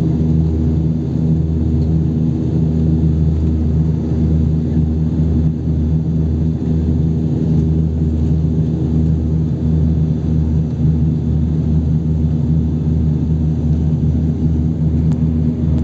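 Turboprop airliner's engines and propellers running steadily, heard from inside the cabin: an even low hum with several steady tones.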